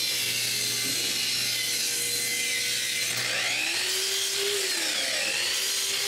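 A power saw running steadily as it rips thin strips of wood, its tone rising and falling slowly in the second half.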